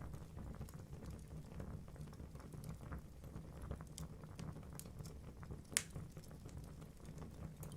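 Wood fire burning in a fireplace: a steady low rumble of flames with scattered small crackles and one sharp pop near the end.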